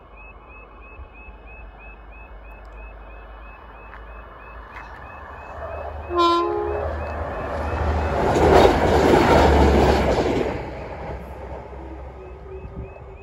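Level crossing alarm warbling, then a diesel multiple-unit train sounds a short horn about six seconds in and rushes past over the railway crossing, loudest about two to four seconds after the horn before fading.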